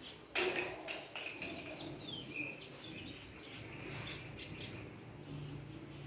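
Several birds chirping and calling, with short high whistles, after a brief loud harsh burst about half a second in.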